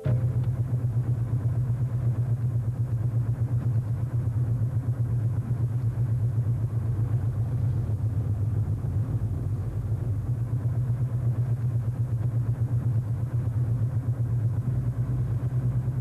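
An engine running steadily, a low drone with a fast, even throb, starting abruptly.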